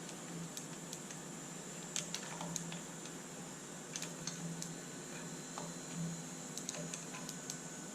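Scattered light clicks and taps of tools working on a car cylinder head as the valve retainers are removed, over a steady low hum and hiss.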